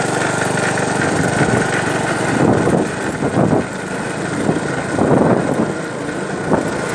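An engine running steadily, with a few louder irregular sounds over it.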